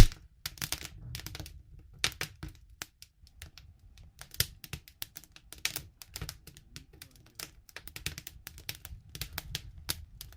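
Wood fire crackling and popping in irregular sharp snaps, with a loud pop right at the start and a sparser lull about three to four seconds in.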